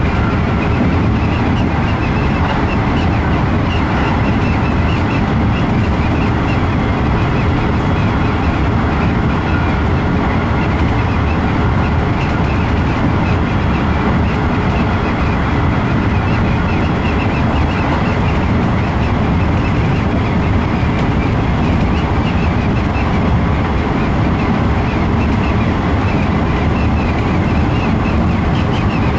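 Keikyu New 1000 series electric train running along the line, heard from inside the leading car behind the driver's cab: a steady running noise of wheels on the rails.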